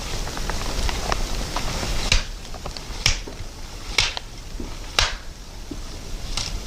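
Crunching steps in snow, about one a second, beginning about two seconds in. Light crackling clicks come before them.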